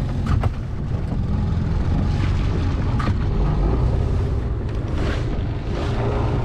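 A sailboat's inboard engine running steadily at idle, a low, even hum, with a few light knocks.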